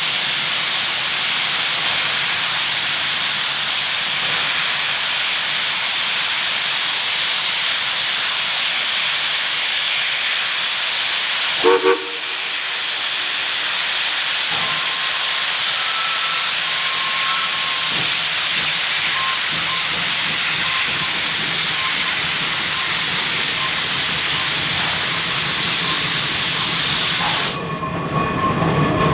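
Geared steam locomotive venting steam in a loud, steady hiss that cuts off abruptly near the end. There is a brief short sound about twelve seconds in.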